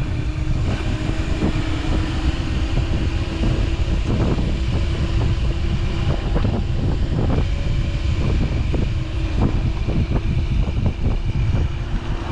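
Wind buffeting the microphone while riding an electric dirt bike, with a steady whine from the electric motor that fades near the end and scattered knocks and rattles from the rough ground.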